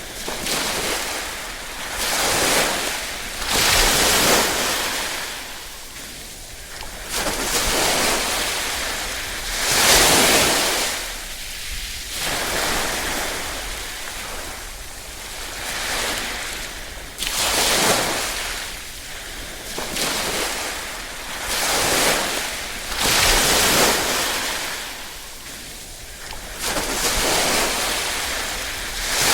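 Small waves lapping and washing on a shore, each swell of hiss rising and falling every two to three seconds.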